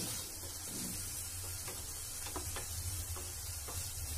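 Onions and tomatoes frying in oil in a kadai with a soft, steady sizzle, while a spatula stirs them, scraping and tapping lightly against the pan about five times.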